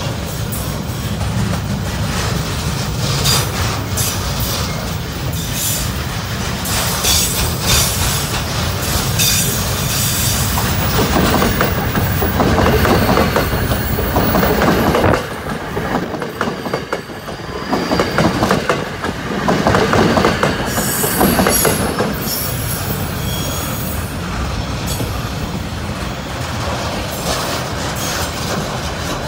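Long freight train of container wagons rolling past, wheels clicking over the rail joints and squealing. About midway an electric passenger train passes on the near track, making the sound louder and brighter for several seconds.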